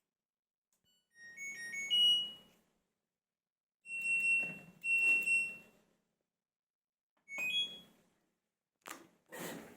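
Electronic chimes and beeps from an LG washing machine's control panel: a short tune of a few notes, two longer beeps, another short tune, then two dull knocks near the end.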